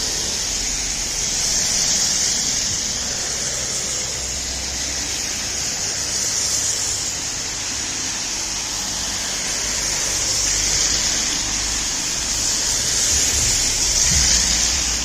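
Road traffic on a wet road: a steady hiss of tyres on water with a low rumble beneath, swelling as vehicles pass about every four seconds.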